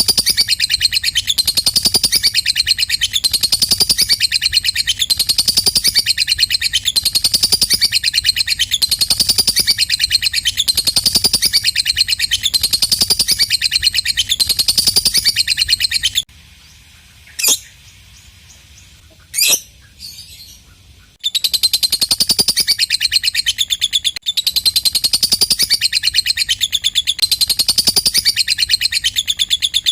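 Lovebird 'ngekek' song: a long, fast, unbroken high chattering trill, pulsing about once a second. About 16 seconds in it breaks off for some five seconds, with just two sharp single chirps, then the chatter starts again.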